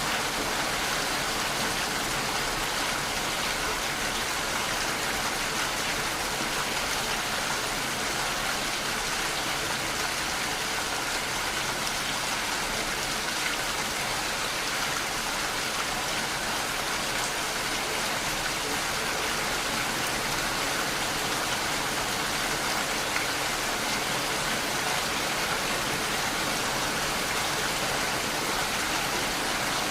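Steady rainfall, an even hiss of rain falling and hitting surfaces.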